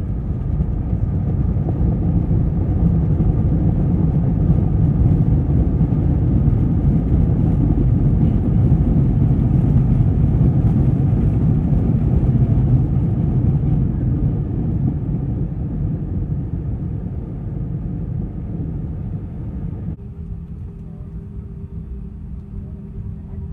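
Airbus A320 cabin noise on the landing roll: a loud rumble of engines and runway that swells over the first few seconds, holds, then fades as the aircraft slows. Near the end it drops abruptly to a quieter hum with a steady tone.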